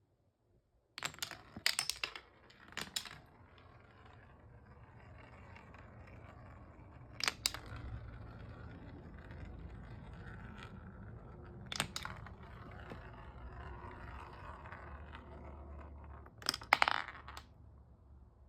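Marbles rolling along a wooden marble run with a steady low rumble, broken by sharp clacks as they strike the wooden track pieces: a cluster of clacks early, single ones twice in the middle, and another cluster near the end.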